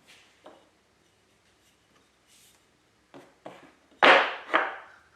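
A few light knocks and taps on wood, then two sharp, louder knocks about half a second apart near the end, each with a brief ring.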